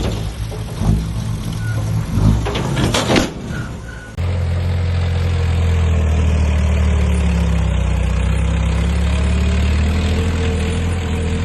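Heavy diesel earthmoving machine running. Uneven engine noise with a few sharp knocks about two to three seconds in, then an abrupt change, just after four seconds, to a steady engine drone.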